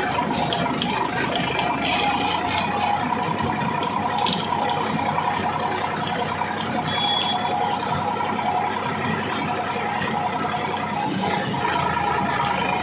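Sonalika tractor's diesel engine running steadily under load while pulling a trolley loaded with stone gravel, with a steady rattling mixed in.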